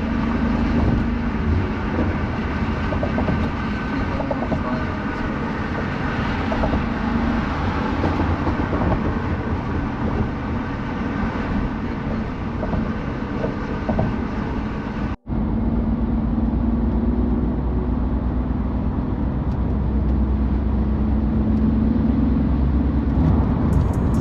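BMW F82 M4's twin-turbo S55 inline-six running on the move, heard from inside the cabin along with steady road and tyre noise. The sound drops out for an instant about fifteen seconds in and comes back duller.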